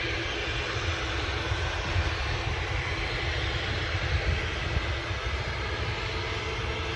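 Airliner jet engines running: a steady noise with a deep rumble underneath, holding even throughout.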